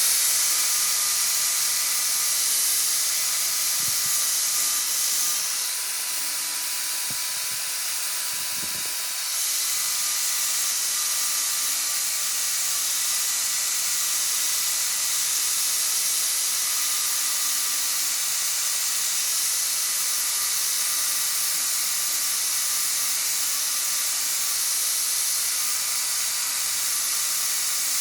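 A steady, loud hiss with faint steady whining tones underneath, easing slightly for a few seconds early on with a few faint knocks.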